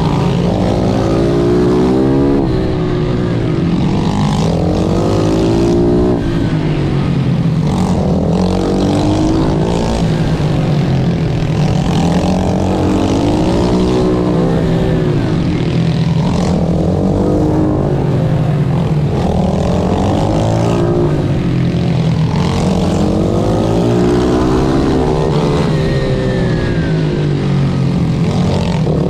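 Pit bike's single-cylinder engine racing, the pitch rising and falling over and over every few seconds as the rider accelerates out of corners, shifts and rolls off.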